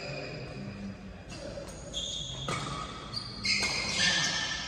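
Badminton players' shoes squeaking on the court floor during a rally: several short high squeaks at different pitches, overlapping and starting and stopping abruptly, with a sharp racket hit on the shuttlecock about halfway.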